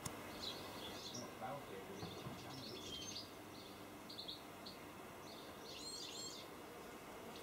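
Faint birdsong in the garden: short, high chirps from small birds scattered throughout, with a busier burst of calls about six seconds in, over a quiet outdoor hiss.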